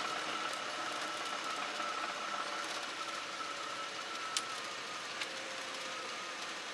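Cessna Skyhawk cabin noise during the landing rollout, with the engine at idle: a steady hiss with a faint wavering tone, and two faint clicks about four and five seconds in.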